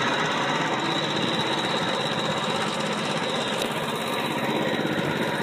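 Honda walk-behind lawn mower's small petrol engine running steadily at a constant speed.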